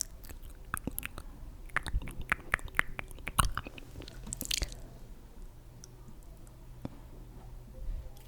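Close-miked ASMR clicks, taps and crackles, densest in the first three seconds, with a brief high swish about four and a half seconds in and only scattered clicks after.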